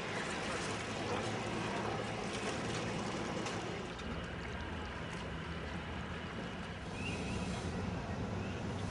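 Steady low mechanical hum under an even wash of wind and water noise aboard a sailing yacht under way.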